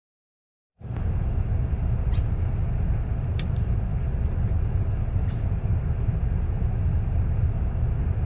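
Steady low rumble, like a vehicle in motion, cutting in suddenly about a second in, with a few faint ticks over it.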